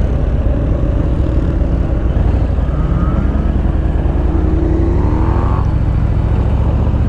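Harley-Davidson Low Rider S V-twin engine running steadily through Screamin' Eagle slip-on mufflers while the bike is ridden, a deep continuous exhaust drone.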